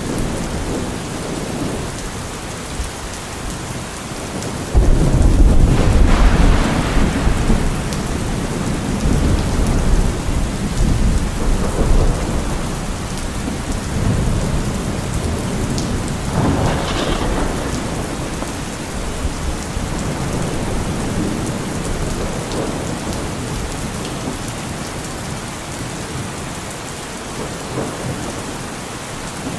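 Steady rain falling, with thunder: a sudden loud clap about five seconds in that rolls on for several seconds, and a second, smaller rumble about halfway through.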